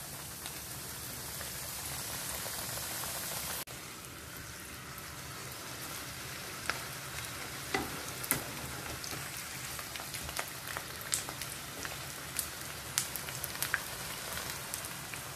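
Chebureki, dough turnovers, frying in hot oil in a frying pan: a steady sizzling hiss with scattered sharp pops and clicks. The hiss drops off sharply a few seconds in, then picks up again.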